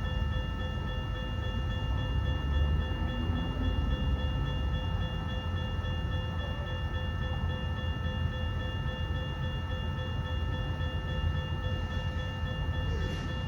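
Freight train rolling through a railroad crossing with a steady heavy low rumble. Over it, a set of high ringing tones holds steady throughout.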